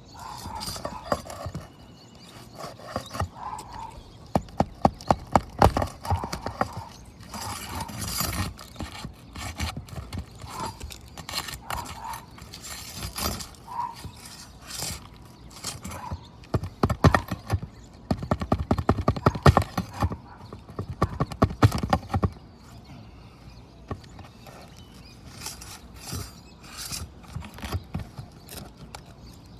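A metal hand tool working at staples in asphalt roof shingles: quick runs of clicking and tapping, with scattered single clicks between them. The densest runs come a few seconds in and again past the middle.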